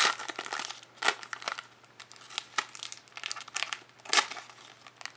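Trading card pack wrapper crinkling and tearing as it is opened by hand, in a run of irregular crackles, loudest near the start, about a second in, and again about four seconds in.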